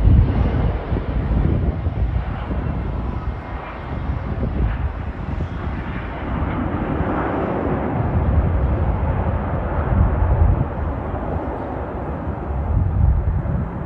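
Jet airliner's engines making a steady rumbling roar as the plane passes, starting to fade near the end.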